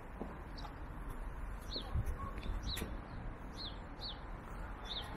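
A small bird chirping repeatedly in short, high notes that fall in pitch, over a steady low outdoor rumble.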